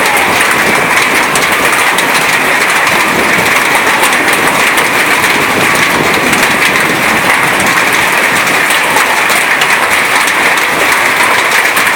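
Heavy rain falling steadily and loudly, a dense even hiss with many small drop impacts.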